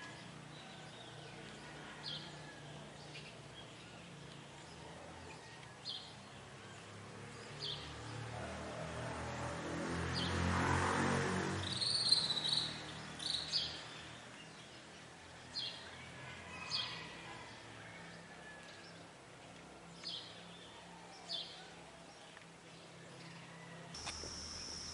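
Wild birds giving short, high chirps every second or two in the morning. A broad rushing noise swells and fades in the middle, and a steady high buzz starts near the end.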